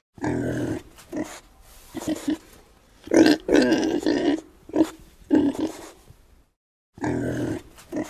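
Domestic pig grunting: a run of short grunts with a longer, louder grunt about three seconds in, breaking off briefly near the end before the grunting resumes.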